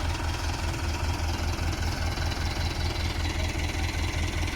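Tractor diesel engine running at low, steady revs, with an even low throb about five or six times a second.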